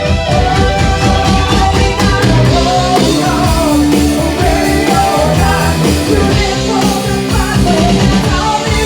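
A rock band playing loud, with drums, electric guitar and singing.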